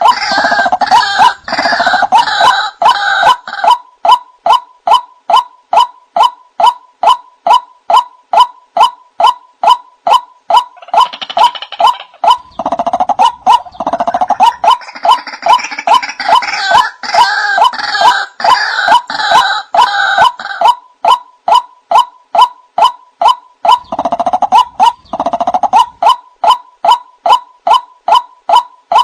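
White-breasted waterhen (ruak-ruak) calling: a steady run of repeated short notes, about two or three a second, with harsh, chattering outbursts laid over them at the start, through the middle, and again a little before the end.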